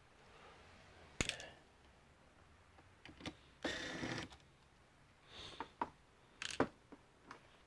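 Scattered small clicks and taps of a screwdriver and loose screws during disassembly of a computer case, with a short scraping rush about halfway through.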